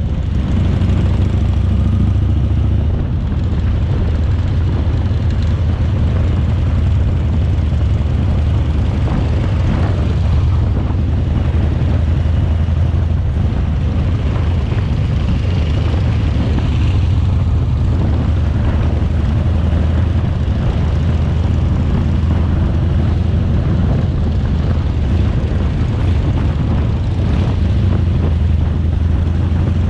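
Harley-Davidson Shovelhead V-twin engine running steadily under way, a constant low drone.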